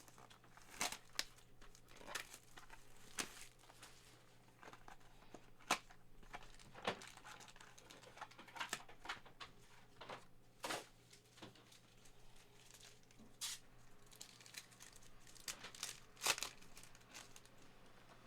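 Trading card packs being torn open and their wrappers crinkled, heard as scattered short crackles and snaps.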